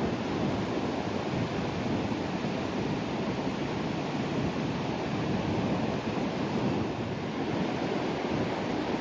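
Calm sea waves breaking on the shore: a steady, even rush of surf with no single crash standing out.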